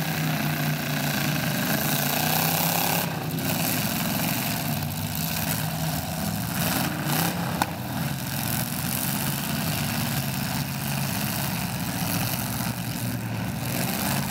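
Demolition derby cars and a van running their engines in a muddy arena, a steady mix of idling and revving. One sharp knock stands out a little past halfway.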